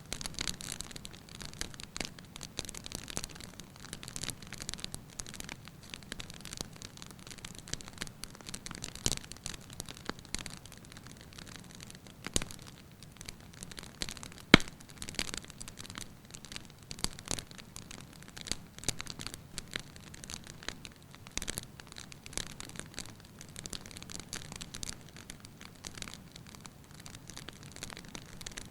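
Firewood burning in a fireplace, crackling lightly with irregular sharp pops and snaps over a soft hiss of flame; one louder pop about halfway through.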